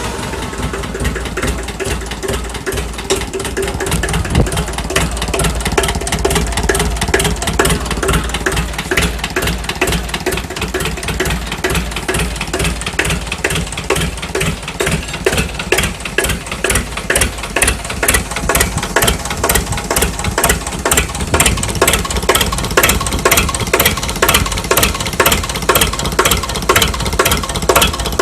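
Small tractor engine idling shortly after a cold start, with a steady knocking beat of firing strokes that comes through more clearly over the last few seconds.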